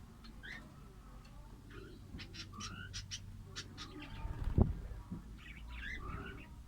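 Small caged parrots chirping in short rising notes, with a quick run of sharp, high chips about two to three and a half seconds in. A single loud thump comes about four and a half seconds in.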